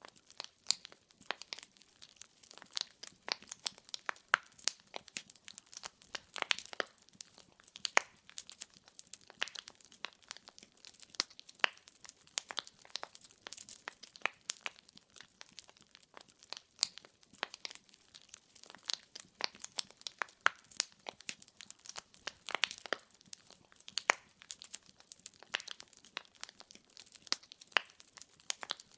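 Firewood burning in a fireplace, crackling with frequent sharp irregular pops over a soft hiss.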